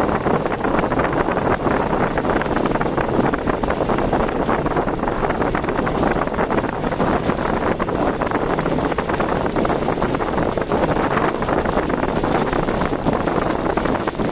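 Steady rushing noise of a car driving in typhoon wind: wind and road noise with no breaks.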